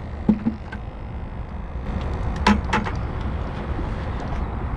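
Steady low outdoor rumble, with a few short light knocks about a quarter second in and again about two and a half seconds in.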